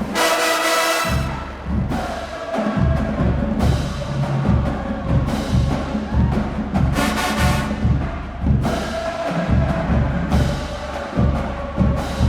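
HBCU marching band playing a song: brass over a steady bass drum and percussion beat, with loud brass hits near the start and around the middle.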